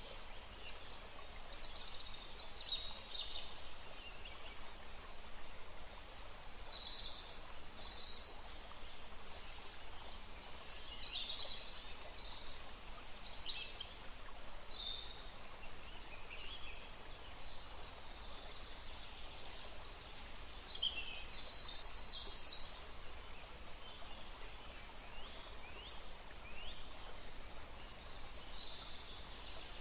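Woodland ambience: several songbirds chirping and singing in short, quick notes throughout, over a steady low background hush.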